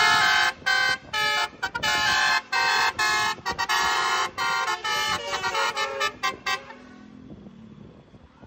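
Indonesian 'telolet basuri' multi-tone bus horn playing a tune: a run of short and held horn notes at changing pitches, stopping about six and a half seconds in.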